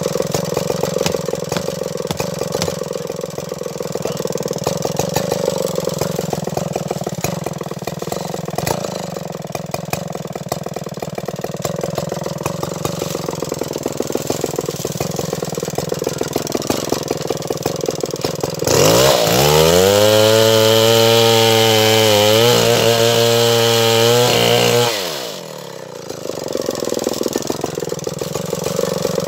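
Stihl 070 two-stroke chainsaw engine running steadily while sawing acacia wood. About two-thirds of the way in it revs up sharply and holds a high, louder scream for about six seconds, then drops off suddenly and settles back into its steady working note.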